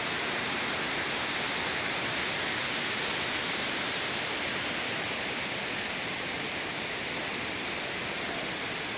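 Steady rushing of falling water from a waterfall, an even hiss that does not change.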